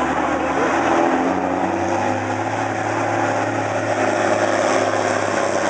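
Diesel pickup's 6.7-litre Cummins inline-six turbodiesel running hard under load in a sled pull, its pitch shifting a few times.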